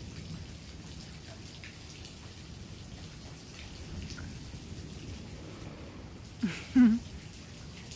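Steady rain falling, an even hiss and patter. About six and a half seconds in, a short voice call briefly rises above it.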